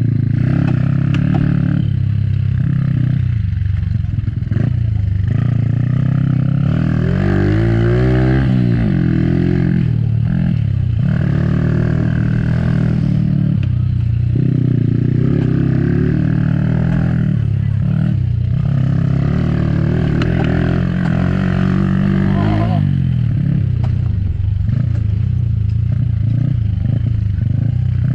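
Dirt-track motorcycle engines running loud and continuously, revving up and down in pitch as bikes accelerate and pass. There is a sweeping rise and fall in pitch about eight seconds in and another near the end.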